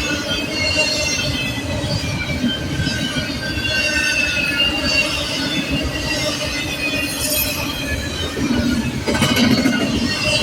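Freight train cars rolling past with their wheels squealing, several high squealing tones rising and fading over a steady rumble, with a louder swell about nine seconds in.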